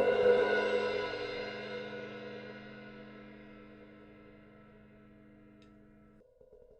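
An 18-inch Sabian AAX Metal Crash cymbal ringing out with a dense set of steady overtones, loudest near the start and slowly dying away. The ring cuts off abruptly about six seconds in, and a new ring starts to build near the end.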